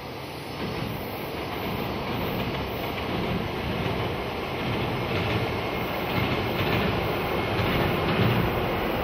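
AN-8900 diesel railcar running across a steel railway bridge, its wheels rumbling and clacking on the rails, growing steadily louder.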